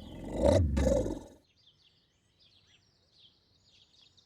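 A loud low rumble that fades out about a second in, followed by faint birds chirping.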